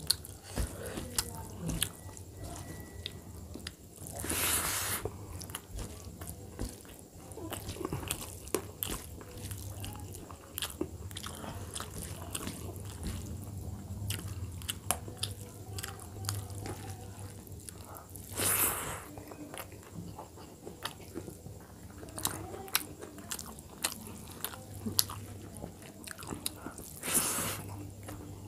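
Close-miked chewing and lip smacking of a person eating dal and rice by hand, a stream of small wet clicks. Three times a short hissing rush rises above it, about half a second to a second long, over a steady low hum.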